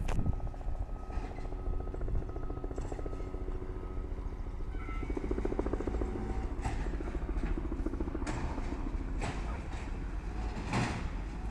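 Garbage truck's diesel engine running with a steady low rumble, with four sharp knocks or clanks in the second half.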